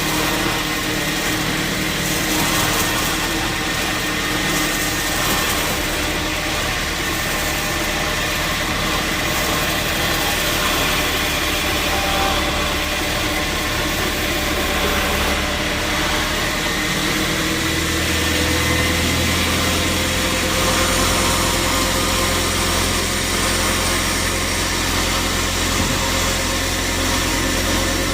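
Sawmill machinery running steadily with a constant motor hum and several steady tones; the low hum shifts to a stronger, deeper drone a little past halfway.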